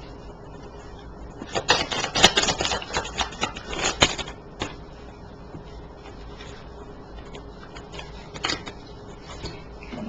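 Tarot cards being shuffled by hand: a dense run of quick card clicks and flicks lasting about three seconds, then a single sharper click later as a card is handled.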